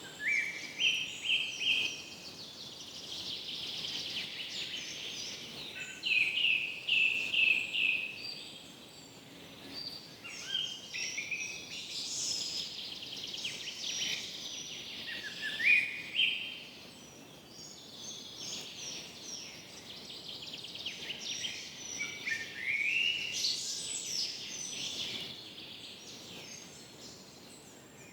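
Forest birds singing, several birds overlapping in clusters of short chirps and rapid trills every few seconds, over a steady background hiss.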